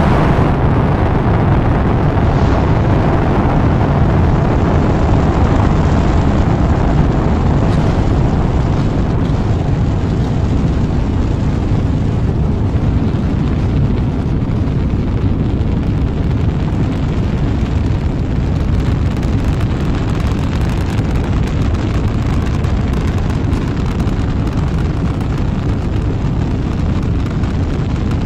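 Rocket engines at launch: a loud, steady, dense rumble, heaviest in the bass, with its upper hiss thinning slightly as it goes on.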